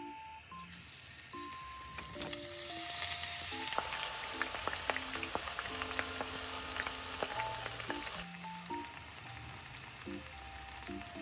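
Thin sweet potato slices frying in hot oil, a dense sizzle full of crackles that starts about half a second in, is loudest around three seconds in and eases off after about eight seconds. Light background music plays throughout.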